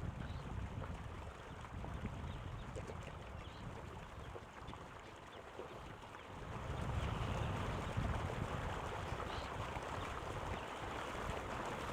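Wind rumbling on the microphone over a steady outdoor hiss of water, easing for a couple of seconds around the middle and picking up again. A few faint, short, high bird calls sound above it.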